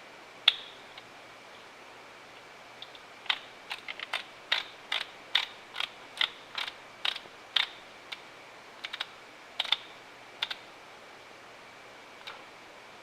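A hand ratchet wrench clicking in short, uneven strokes, about two clicks a second at its busiest, as fasteners are run down on the engine.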